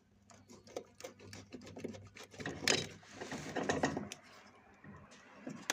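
Clicks and scraping from handling the relay-overload unit on a refrigerator compressor as it is being opened, with a busier stretch of rubbing and rattling in the middle.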